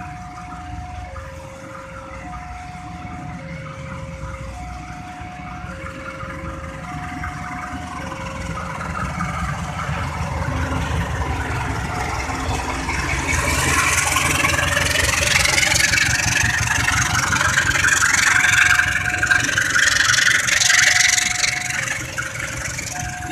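Railway level-crossing alarm sounding its two alternating tones over idling vehicle engines. From about ten seconds in, a train passing the crossing grows loud with a rushing, clattering wheel noise that peaks and then eases near the end, when the alarm tones are heard again.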